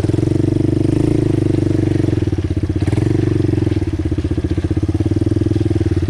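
ATV engine running at low to moderate revs with a steady, rapid pulse, swelling slightly now and then as the throttle is worked.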